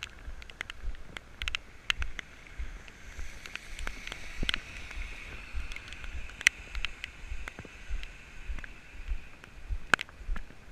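Rain outdoors with wind rumbling on the microphone, irregular sharp taps, and a steady wet hiss that builds a few seconds in and fades near the end.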